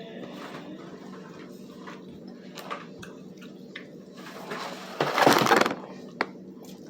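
Handling noises at a meal: scattered small clicks and knocks, with a loud, short crackling rustle about five seconds in.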